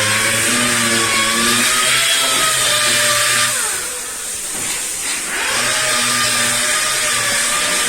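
Power sander dry-sanding car bodywork, its motor running with a steady whine. About three and a half seconds in, the whine winds down, then it spins back up to full speed about two seconds later.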